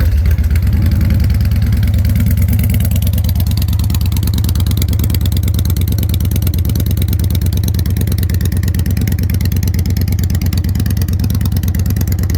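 2016 Victory Gunner's Freedom 106 V-twin engine idling steadily through an upgraded aftermarket exhaust, freshly started.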